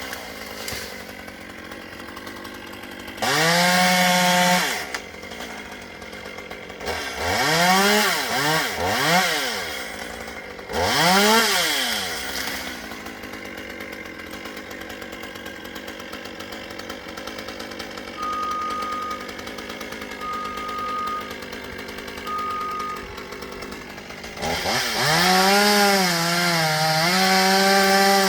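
Chainsaw idling, revved up in three short throttle blips, then opened up and held at high revs for the last few seconds.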